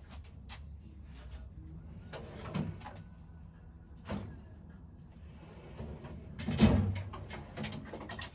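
Rummaging through a tool box or drawer: metal tools clinking and knocking, with a louder scraping clatter about six and a half seconds in.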